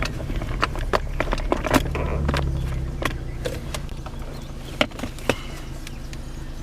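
2015 Chevrolet Camaro's 3.6-litre V6 with the muffler deleted, heard from inside the moving car: a steady low exhaust drone that swells briefly about two seconds in, with scattered light clicks and knocks from the cabin.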